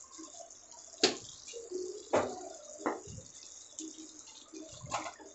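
A metal spoon stirring wet chicken curry in a pan, knocking sharply against the pan about four times with a brief ring, over faint wet squelching and bubbling.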